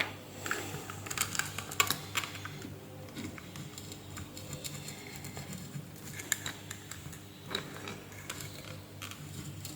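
Light, irregular clicks and taps of small tools and parts being handled on a repair bench, over a faint low steady hum.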